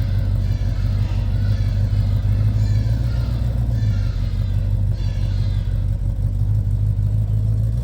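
A car engine running steadily, a deep low rumble throughout.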